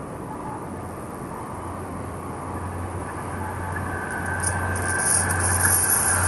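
A train approaching on the track, its rumble growing steadily louder, with a steady hissing rail noise joining about four seconds in.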